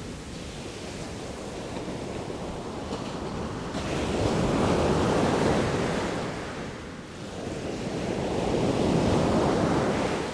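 Ocean surf: waves breaking and washing in, with two surging swells of noise, one building about four seconds in and another about eight seconds in, before it falls away near the end.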